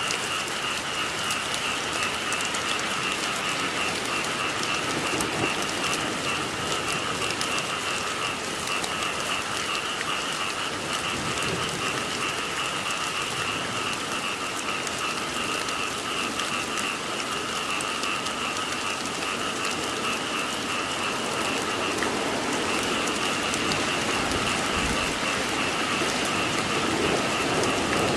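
Steady rain falling, with a continuous chorus of frogs calling: a high pulsing band of calls over a lower one.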